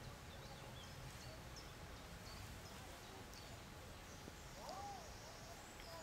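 Faint park ambience: a steady low background rumble with short, high bird chirps scattered throughout, and a brief lower call about two-thirds of the way in.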